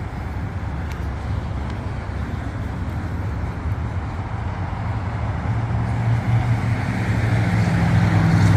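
A car engine running steadily over outdoor background noise. Its low hum grows louder over the last few seconds.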